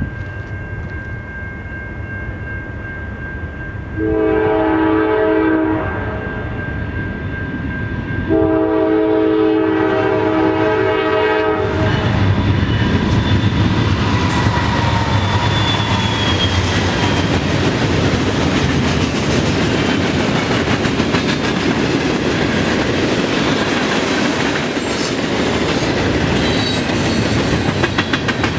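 Norfolk Southern freight train approaching, its locomotive's air horn sounding twice: a short blast about four seconds in and a longer one about eight seconds in. Then the train passes close by with a loud, steady rumble, wheels clicking over the rails and brief faint wheel squeals.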